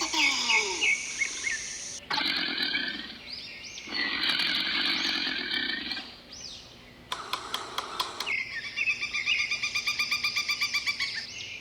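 Bird chirps and calls in a run of short spliced clips that change abruptly every second or two, ending in a fast repeated trill-like call.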